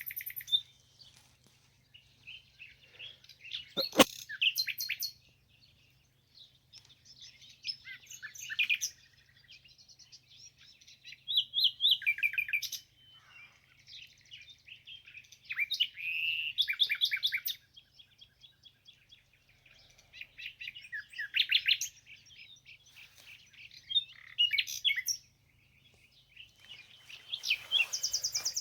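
Songbird singing in phrases of rapid chirps and trills every few seconds, with short pauses between phrases. A single sharp click about four seconds in.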